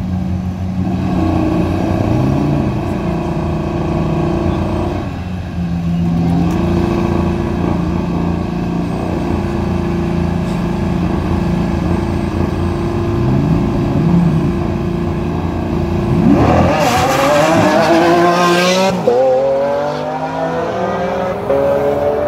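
Lamborghini Aventador V12 and Audi RS3 turbocharged five-cylinder running steadily side by side at the start line, with a few short revs. About 16 seconds in they launch: engine pitch climbs sharply with a burst of noise, then drops at an upshift and climbs again, twice.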